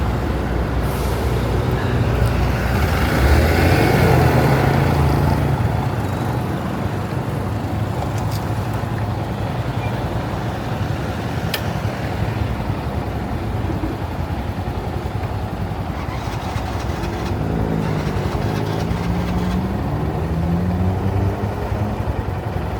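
Honda Monkey's small single-cylinder engine accelerating through traffic, its pitch climbing a few seconds in and again in several short rising steps near the end as it pulls through the gears. Heavy wind noise on the microphone runs underneath.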